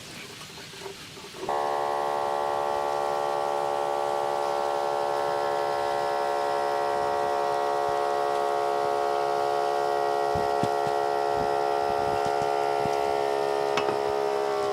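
A steady machine drone with many even overtones starts abruptly about a second and a half in and holds at an unchanging pitch, typical of a small motor running.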